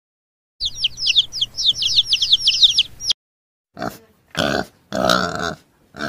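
Baby chicks peeping, a quick stream of high, falling cheeps for about two and a half seconds. After a short pause come four short grunts from a warthog.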